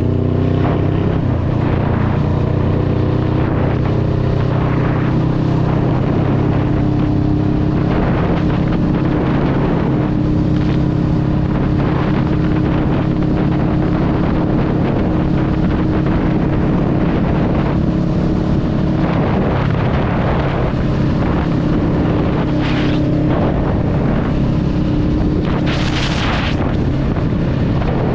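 Honda Rebel 500's parallel-twin engine running at a steady cruise, with wind noise on the microphone. The engine pitch shifts near the start and again about two-thirds of the way through, and a gust of wind hits the microphone near the end.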